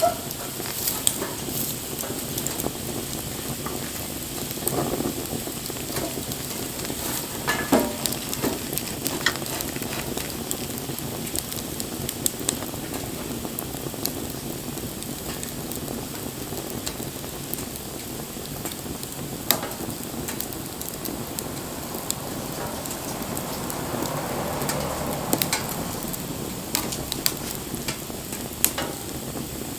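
Wood bonfire burning: a steady crackling hiss with sharp pops scattered through it, and a brief swell of louder hissing about twenty-five seconds in.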